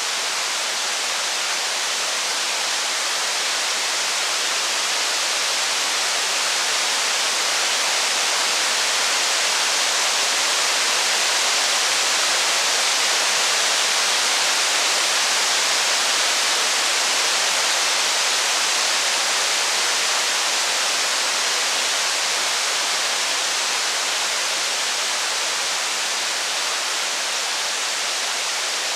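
Steady rain, an even hiss that swells slightly in the middle and eases again.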